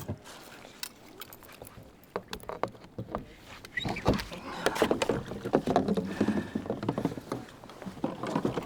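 Irregular knocks, clicks and rustling of gear and the landed king salmon being handled aboard a fishing kayak. They are sparse at first and come thick and fast from about halfway through.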